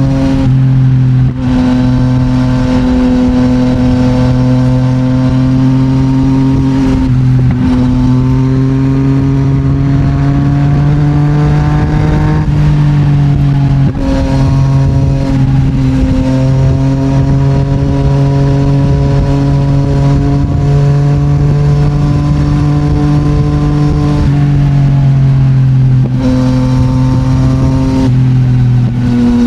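Yamaha MT-09's three-cylinder CP3 engine through an Akrapovic full titanium exhaust, heard from the bike while riding. It runs at a steady cruise, and its pitch rises slowly and drops back several times.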